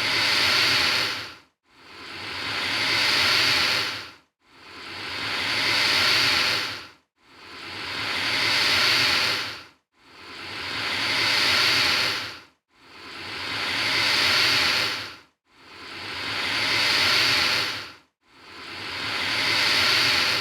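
Alligator hissing: the same long, breathy hiss repeated about every two and a half to three seconds, each one swelling up and then cutting off sharply, with a brief silence between them.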